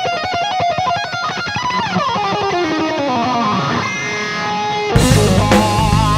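Instrumental rock: an unaccompanied electric guitar plays fast notes and a long descending slide in pitch. The full band with drums and bass crashes back in about five seconds in.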